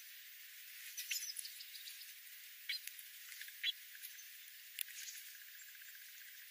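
Faint, short, high-pitched animal chirps and squeaks, a few scattered over a few seconds, over a steady faint hiss, with a quick fine trill near the end.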